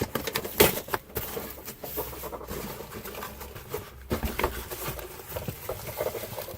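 Cardboard box and packaging being handled: an irregular string of rustles, scrapes and knocks, the loudest knock about half a second in.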